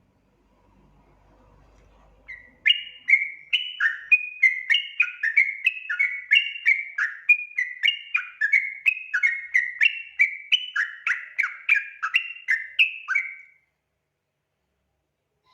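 Yellow-vented bulbul (trucukan) singing. It gives a long run of rapid, bubbly notes that jump between higher and lower pitch, about three a second. The run starts a couple of seconds in and stops shortly before the end.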